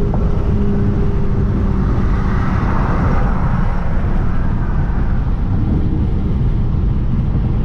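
Car engine running at steady revs while driving, over a heavy low road rumble; a rushing noise swells and fades about three seconds in.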